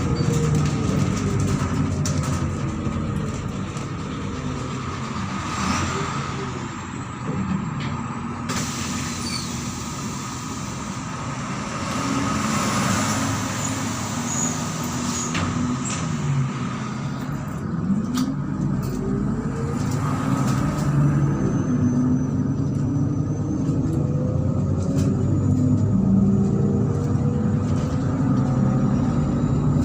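MAZ-103 city bus's diesel engine running as the bus slows, the engine note falling over the first several seconds and staying low for about ten seconds, then rising again as the bus picks up speed about two-thirds of the way in and settling to a steady run.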